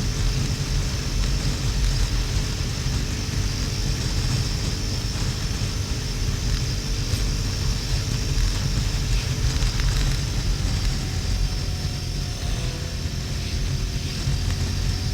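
Harley-Davidson XL1200N Sportster's air-cooled V-twin running steadily at motorway speed, under a heavy rush of wind noise on the microphone.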